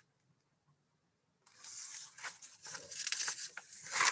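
Paper rustling and crackling as a picture book's page is handled and turned, starting about a second and a half in after near silence.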